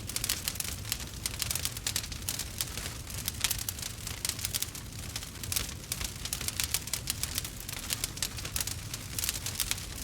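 Burning wood fire crackling and popping, with many quick irregular snaps over a steady low rumble.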